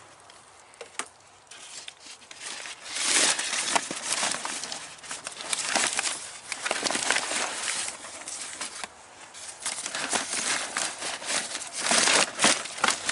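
A bag crinkling and rustling in uneven bursts as it is handled, with small clicks; it starts quiet and grows louder about three seconds in, easing off and swelling again near the end.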